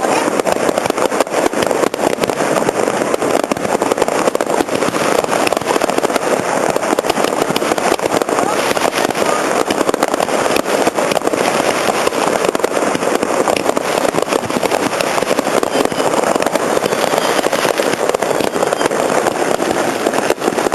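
Fireworks display: a steady, dense stream of crackles and pops, heard over the din of a large crowd.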